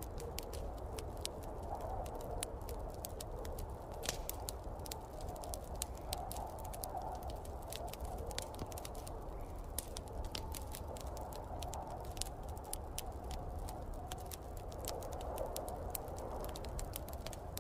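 Wood fire crackling, with frequent irregular sharp pops, over a steady rushing and low rumble of snowstorm wind.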